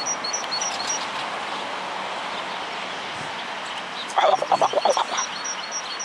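A small songbird repeating a high two-note call about three times a second, over a steady background hum of the city. About four seconds in comes the loudest thing: a quick run of quack-like calls lasting about a second.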